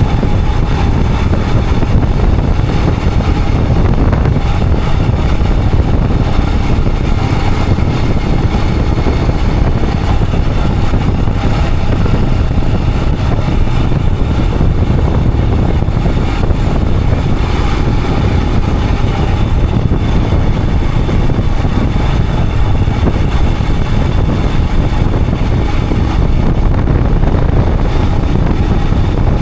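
Royal Enfield Himalayan 411's single-cylinder engine running steadily while the motorcycle is ridden, mixed with dense low wind and road rumble on the camera microphone.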